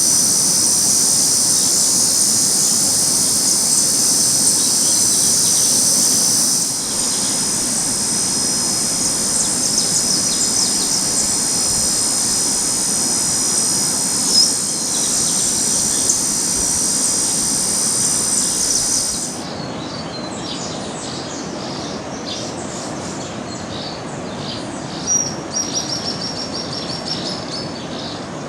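Outdoor nature ambience: a loud, steady, high-pitched insect drone with scattered bird chirps over it. About two-thirds of the way through the drone stops abruptly, leaving birds chirping and calling against a soft outdoor hiss.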